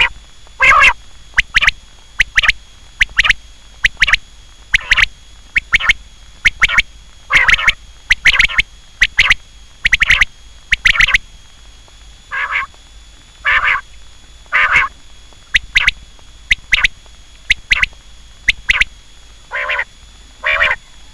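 Quail calling over and over, a short harsh call about once or twice a second with brief pauses between groups, over a faint steady high-pitched tone.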